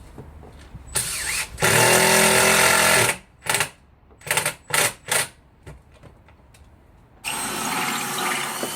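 Electric drill run in bursts: a short run, then a longer one of about a second and a half, then several short trigger blips, and another longer run near the end.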